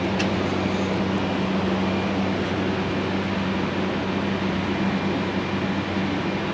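A steady machine hum, low and even, over a constant rushing air noise, with a faint click right at the start.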